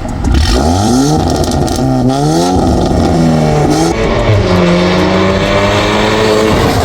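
Volkswagen Golf 8R's 2.0-litre turbocharged four-cylinder accelerating hard in Sport mode. The engine note climbs in pitch, drops at a gear change about two seconds in, then runs on at a steadier, slowly rising note.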